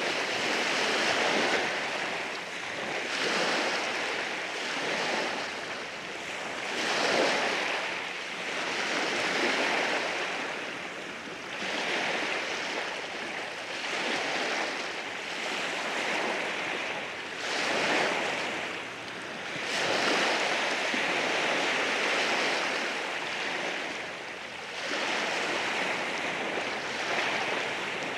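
Sea waves washing in over rocks, the rush of surf swelling and easing every two to three seconds.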